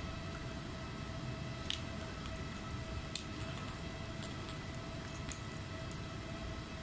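A few short, sharp clicks of small hand tools at work, three or four in all, spaced a second or two apart, over a steady background hum with faint high tones.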